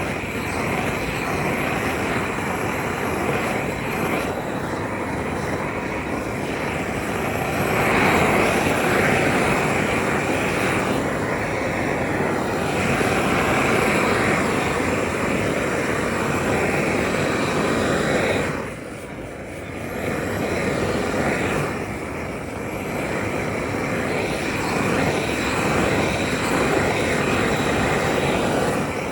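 Factory machinery running with a loud, steady rushing noise that eases off briefly a little over halfway through and then picks up again.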